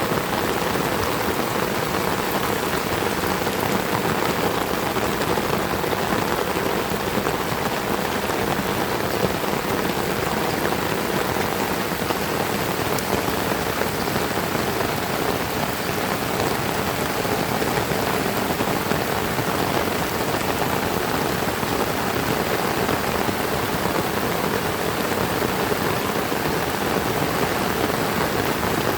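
Heavy rain falling steadily, an even unbroken hiss with no letup.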